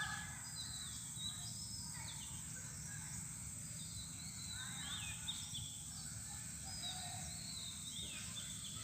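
Birds chirping faintly over a low steady background noise, with many short falling chirps throughout.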